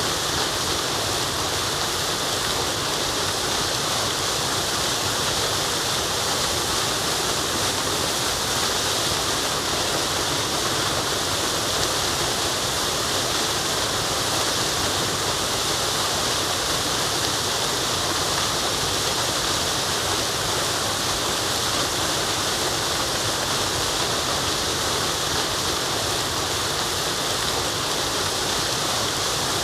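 Waterfall: falling water rushing in a steady, unbroken hiss that is strongest in the high range.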